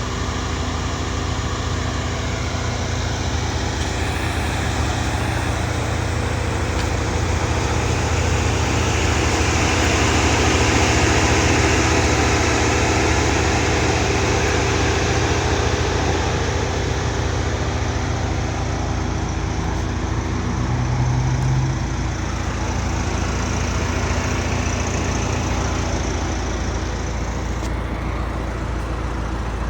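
Steady motor-vehicle noise: a constant low engine-and-road rumble with a steady hum, swelling and easing again about a third of the way through.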